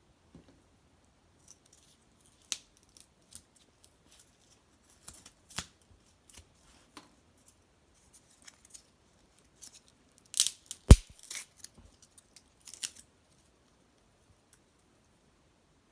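Cedar branches and bark burning in an irori hearth fire, crackling with scattered sharp pops, the loudest about eleven seconds in.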